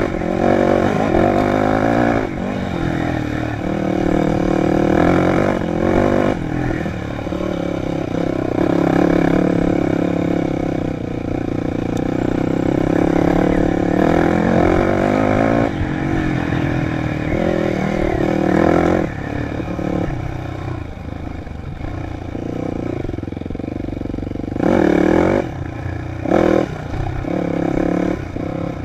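Dirt bike engine running under changing throttle, its pitch rising and falling as it revs and eases off, with two short loud revs near the end.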